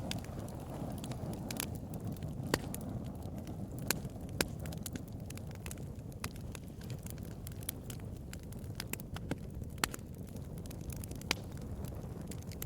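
Wood bonfire burning: a steady low rush of flames with sharp crackles and pops at irregular intervals, a few of them louder snaps.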